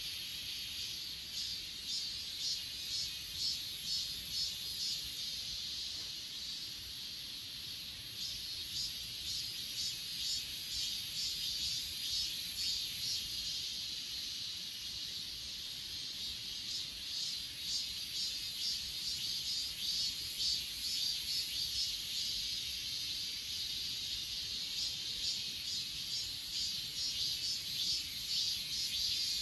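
Chorus of grass insects such as crickets, chirping in fast pulsing trills that swell and fade in stretches of several seconds, over a continuous high-pitched insect hiss.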